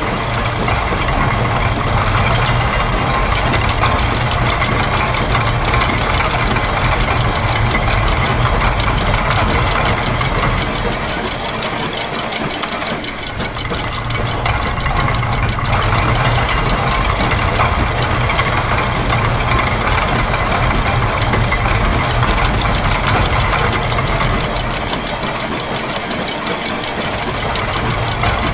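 Dense layered mix of looped factory machine sounds: rapid mechanical ticking and clattering over a steady low hum, thinning briefly near the middle before filling back in.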